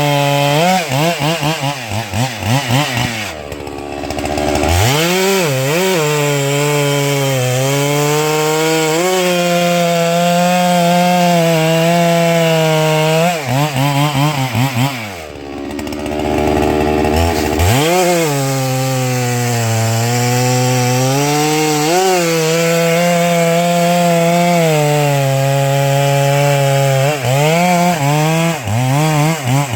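Holzfforma 395XP two-stroke chainsaw cutting through a pine log at full throttle, its pitch sagging and recovering as the chain bites. It drops to idle twice, about three and a half seconds in and again about fifteen seconds in, then revs back up into the next cut.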